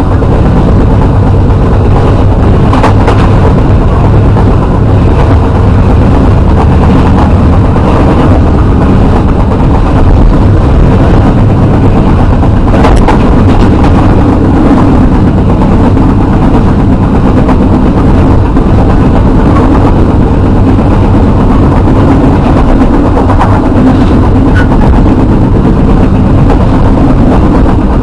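Loud, steady rumble of a moving passenger train heard from inside the carriage, with a low hum running under it and sharp knocks about three seconds and thirteen seconds in.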